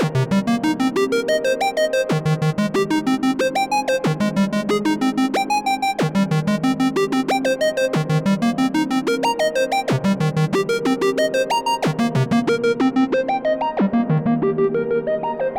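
Moog Grandmother analog synthesizer playing a fast arpeggio of short, pitched notes that step up and down in a pattern shifting every couple of seconds. Near the end the tone grows duller as the high overtones fade.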